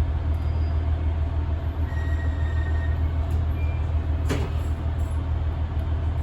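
Diesel railcar running along the line, heard from inside by the cab: a steady low engine drone with wheel and rail noise, and a single sharp knock about four seconds in.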